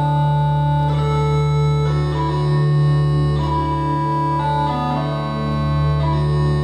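Bagpipes playing a tune: the chanter's melody moves from note to note over a steady, unbroken drone.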